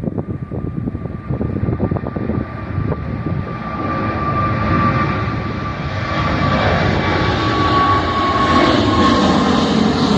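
Airliner taking off: the engines run up and the roar grows steadily louder and brighter, with a steady whine throughout. Rapid bumps and rattles in the first few seconds give way to an even rush.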